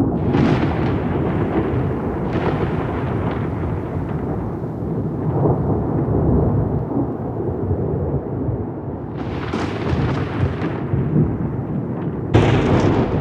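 Thunderstorm with continuous deep rolling thunder. Sharper cracks of thunder flare up near the start, around a third of the way in, and twice near the end, the last one sudden.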